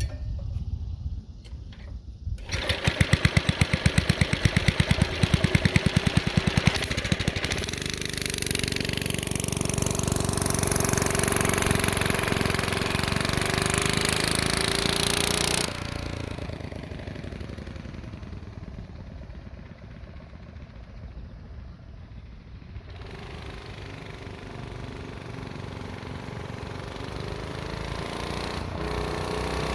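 Lil Indian mini bike's 4 hp Tecumseh HS40 single-cylinder engine running: low at first, suddenly revving up hard about two seconds in, held at high speed, then dropping off sharply about halfway and running lower, its pitch sagging and rising again toward the end.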